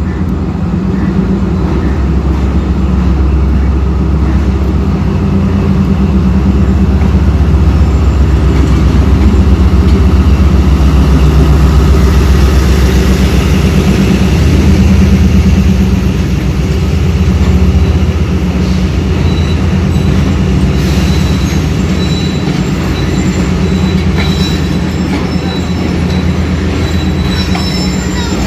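Passenger train hauled by a ZCU-30 diesel-electric locomotive pulling into the station: a steady, loud low engine drone with the rumble of the coaches. From about two-thirds of the way through, a thin, high-pitched wheel squeal joins in.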